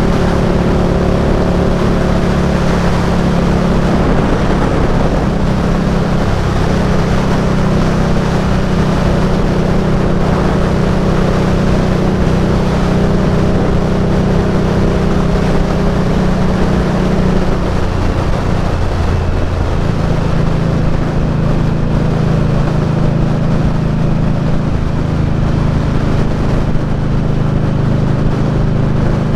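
Indian Scout Bobber's V-twin engine running under way at a steady pace, with a rush of wind noise. The engine note drops briefly about two-thirds of the way through, then holds steady again.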